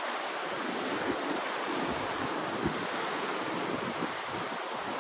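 Ocean waves washing in a steady rush, with wind on the microphone giving a couple of brief low bumps.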